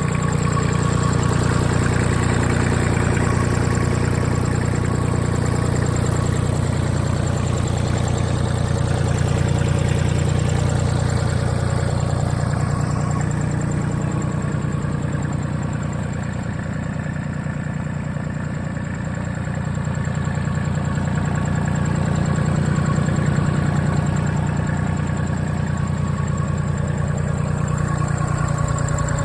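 JCB 327 HST compact tractor's diesel engine running steadily, a little quieter for a few seconds past the middle.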